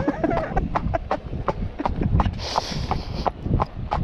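A horse's hooves clip-clopping in a steady rhythm of about four or five strikes a second, with a brief hiss about midway.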